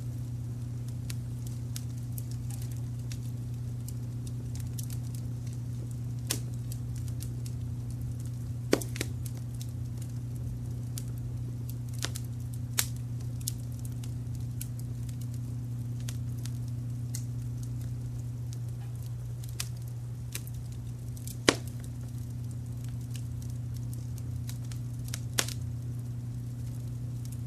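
Wood fire crackling with scattered sharp pops, a few loud ones standing out and spaced several seconds apart, over a steady low brown-noise bed.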